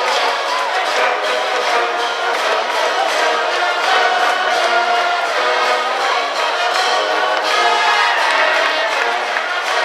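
High school baseball cheering brass band playing a cheering tune in the stands, with trombones and other brass holding sustained notes and the cheering section's voices singing along.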